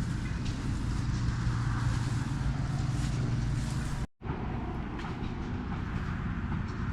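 Engine running steadily with a low, even hum. About four seconds in the sound cuts out abruptly for an instant, then carries on with the hum weaker.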